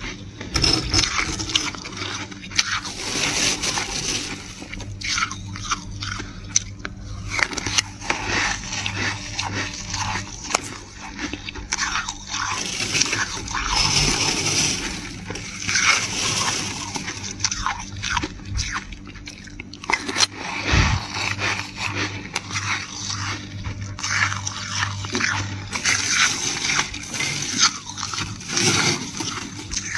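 Flaky freezer frost being scraped and eaten, a run of crunching bites and scrapes one after another.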